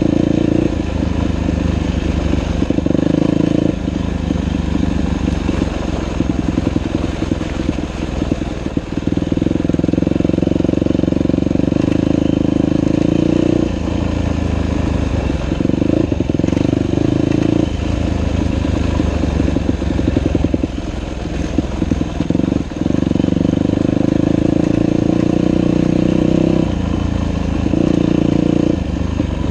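Dirt bike engine riding a trail, going on and off the throttle: the engine note rises and falls in several long surges with choppier, lower stretches between them.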